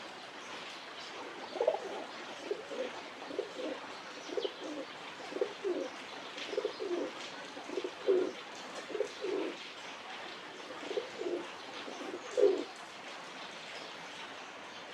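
Pigeons cooing: a long run of low, throaty coos, one after another, pausing briefly about two-thirds of the way through before a last few.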